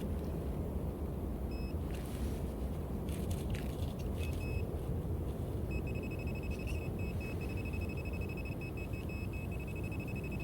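Metal detector sounding on a buried metal target: a few short high beeps, then from about halfway in a nearly continuous high tone, over a low rumble of handling and wind noise.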